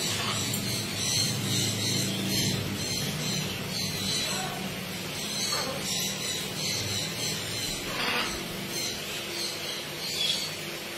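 Parrots calling and squawking now and then over a steady low hum, with a brief sharp squawk about eight seconds in.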